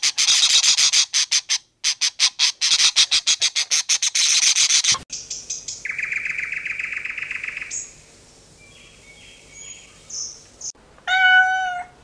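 Rapid high-pitched bird chirping, about eight pulses a second, for the first five seconds, then a steady high buzz for about two seconds. Near the end a cat meows once.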